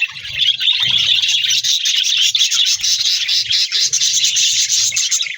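Budgerigars chattering and warbling without a break, a dense stream of rapid high chirps.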